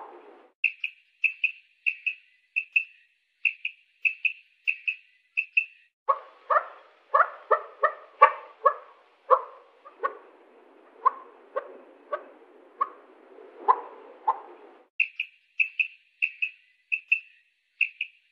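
Quail calling: a quick run of short, sharp high notes, about three a second, then a stretch of lower, harsher calls at an uneven pace, and the high notes again near the end.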